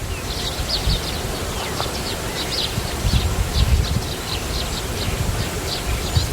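Small birds chirping in a rapid series of short, high chirps, several a second, over a low rumble of wind on the microphone.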